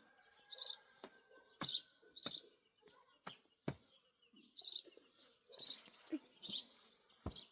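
A small bird chirping, short high chirps repeated every half second to a second, mixed with a few sharp knocks.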